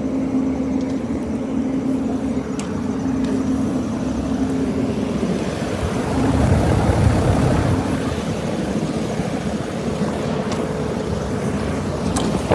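Air conditioner units running with a steady hum and a held tone. A louder low rush swells for a couple of seconds around the middle.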